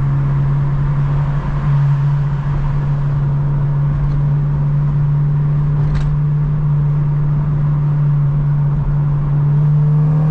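8th-generation Honda Civic Si's 2.0-litre four-cylinder engine pulling along gently at a steady pace, kept quiet rather than revved: a steady low drone that barely changes in pitch.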